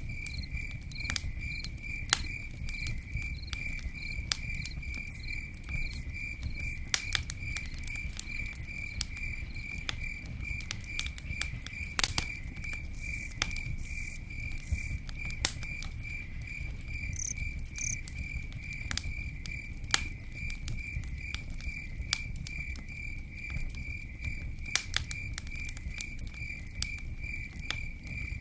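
Campfire crackling, with sharp irregular pops over a low rumble of burning wood. A cricket chirps steadily throughout in a high, evenly pulsed trill.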